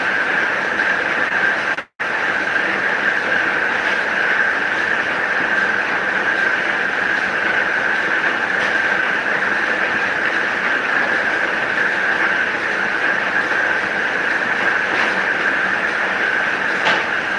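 DQ 201 paper-cutting machine running, a steady mechanical whirr with a high, even hum. The sound drops out for an instant about two seconds in.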